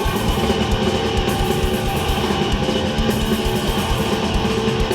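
Hardcore punk band playing live and loud: distorted electric guitars over fast, pounding drums, with no vocals.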